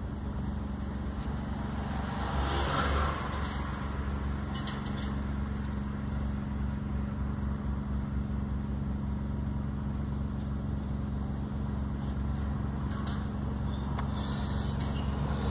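Volkswagen up! TSI's turbocharged three-cylinder engine running at a steady pace while driving, with road noise, heard from inside the car.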